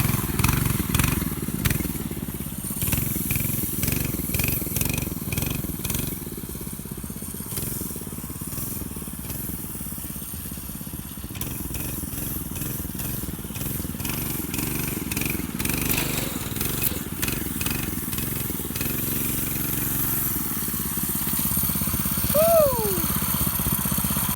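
The Baja Dirt Bug mini bike's 6.5 HP single-cylinder four-stroke engine running under load as the bike rides through a mud hole, its revs rising and falling. Near the end there is a short falling squeal.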